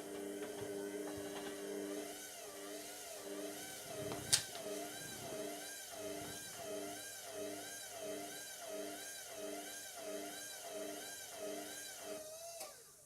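Indesit MTWC71252WUK washing machine's drum motor whining at low speed. Its pitch wavers evenly about one and a half times a second as the drum tumbles a single bath mat, an unbalanced load, while the machine tries to spread it round the drum to pass its balance check before the spin. A sharp click comes about four seconds in, and the motor winds down and stops near the end.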